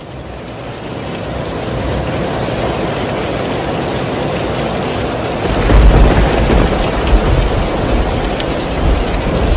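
Heavy rain falling steadily, fading in over the first couple of seconds. About halfway through, a deep rumble of thunder swells up under it and lasts almost to the end.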